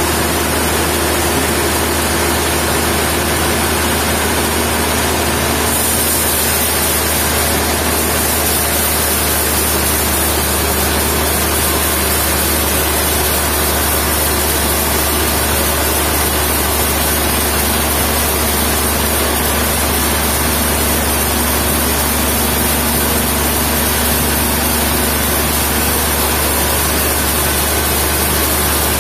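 Heavy sawmill machinery running steadily: a constant low engine hum under an even hiss, with no breaks or changes.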